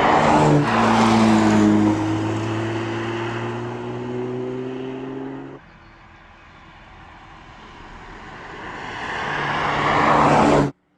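Porsche 911 GT3 (992) 4.0-litre flat-six exhaust under hard acceleration, its pitch stepping at a gearshift about half a second in and then climbing slowly. The sound drops away suddenly a little past halfway, builds again and cuts off abruptly just before the end.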